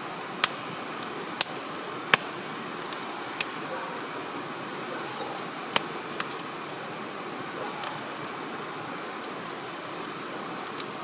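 Wood campfire burning with a steady hiss and about a dozen irregular sharp crackles and pops, the loudest about half a second, one and a half and two seconds in.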